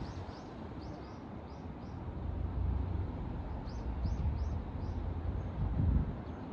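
Small birds chirping in quick runs of short, high notes, about three or four a second, over a steady low outdoor rumble.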